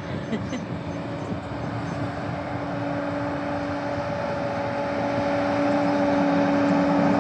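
John Deere combine running, growing steadily louder, with a steady whine that comes in about two seconds in.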